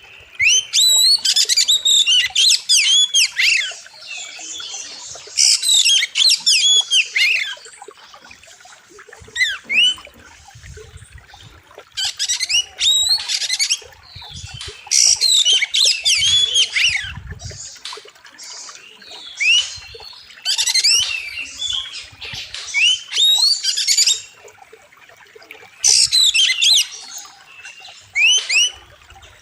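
Oriental magpie-robin (kacer) singing loud, rapid bouts of sharp, sweeping whistles, each bout lasting one to three seconds with short pauses between.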